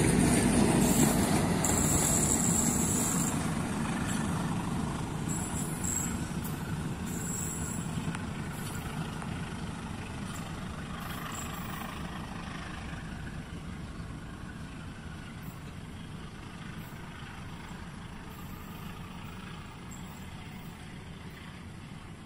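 Passenger train's carriages rolling past on the rails and then pulling away, the rumble of the wheels fading steadily into the distance, with a few brief high-pitched squeals in the first few seconds.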